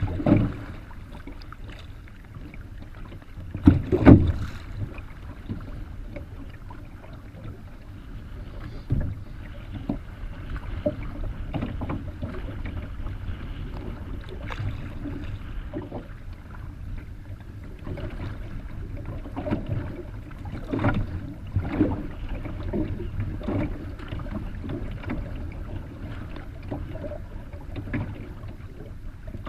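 Paddling a solo Kevlar canoe through rough, wind-driven water: irregular paddle strokes and waves splashing against the hull over a steady low wind rumble on the microphone. Two louder knocks or splashes come right at the start and about four seconds in.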